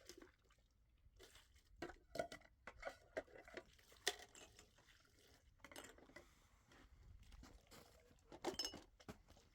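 Faint, irregular handling noises: scattered light taps, clicks and short rustling scrapes, with a sharper click about four seconds in and a brief cluster near the end.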